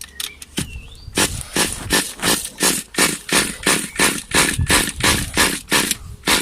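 Cold Thunder Tiger 15 Pro nitro engine being pull-started, starting about a second in: a quick run of short, rasping turn-overs, roughly three a second, with the engine not catching.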